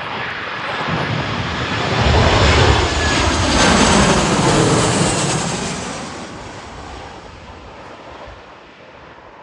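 Airplane passing close by on its landing approach: the engine noise swells to a loud peak a couple of seconds in, then fades away as it goes past.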